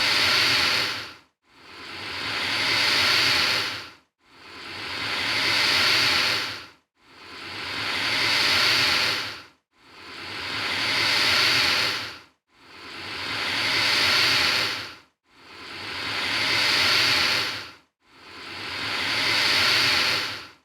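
Alligator hissing, repeated at even intervals of about two and a half seconds: each hiss swells and then dies away, with a short silence before the next.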